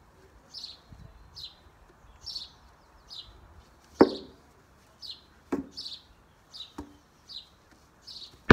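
A garden bird repeating a short high chirp about once every 0.7 seconds. Three sharp knocks cut in, the loudest about four seconds in.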